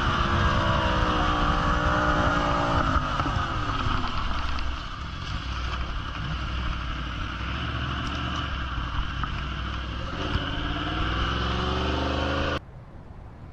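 A motor vehicle engine running, with heavy wind and road noise. Its pitch falls about three seconds in and climbs again near the end, then the sound cuts off suddenly.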